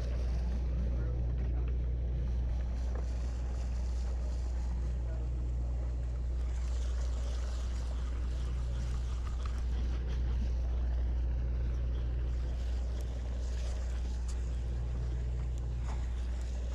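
Engine of a large sportfishing boat running with a steady low hum, over a light hiss of wind and water.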